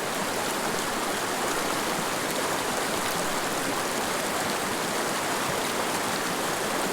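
Mountain river rushing over rocks: steady, even water noise.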